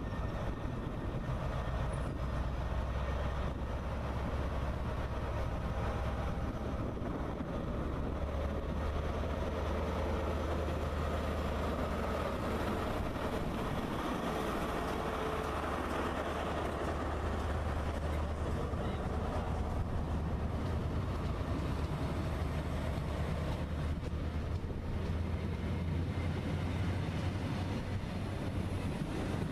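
First Great Western HST led by a Class 43 diesel power car running along the platform: a steady diesel drone with wheel and rail rumble, loudest as the power car draws alongside about halfway through, then the coaches rolling by.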